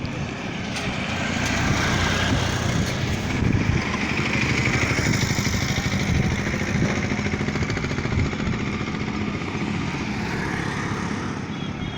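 A motor vehicle's engine running close by with a low, pulsing rumble, growing louder over the first two seconds and easing off a little near the end.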